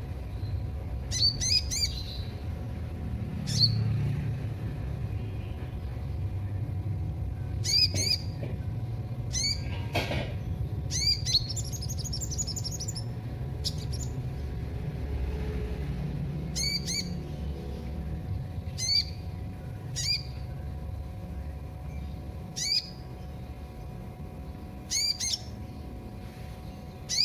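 Kolibri (sunbird) giving short, sharp high chirps, a quick cluster of notes every second or two, with a longer rapid trill about eleven seconds in. A steady low hum runs underneath, and one brief rustle comes near the ten-second mark.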